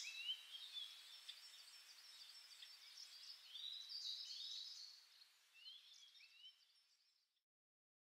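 Faint wild birdsong: scattered high chirps and short rising calls over a light forest hush, fading out to silence about six and a half seconds in.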